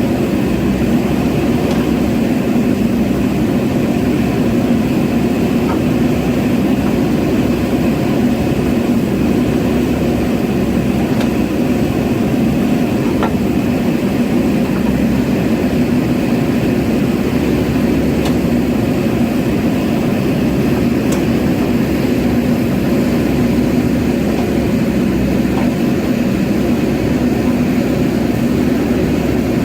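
JCB backhoe loader's diesel engine running steadily, with a constant low hum and a few faint ticks.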